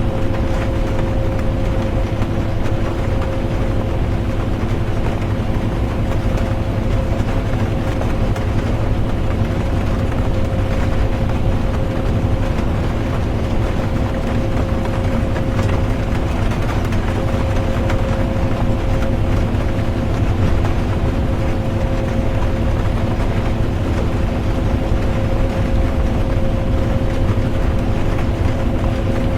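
Steady interior drone of a bus driving: low engine and road rumble with a constant hum, mixed with the even hiss of rain.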